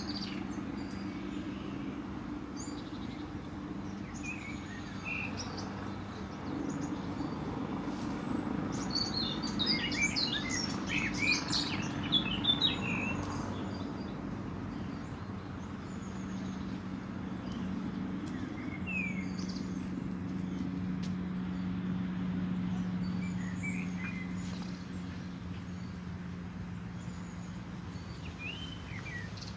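Birds chirping in short, scattered calls, busiest about ten seconds in, over a steady low background hum.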